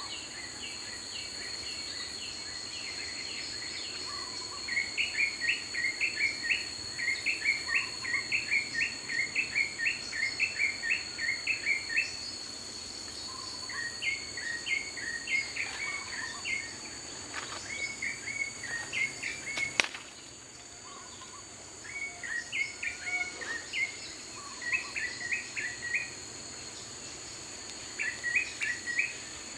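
Daytime forest ambience: a steady, high-pitched insect drone under a bird calling in quick runs of repeated chirps, coming in several bouts with short gaps. A single sharp click about two-thirds of the way through.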